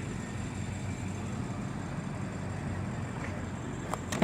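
The BMW 650i Gran Coupe's twin-turbo V8 idling, a steady low rumble heard from inside the cabin, with a couple of sharp clicks near the end.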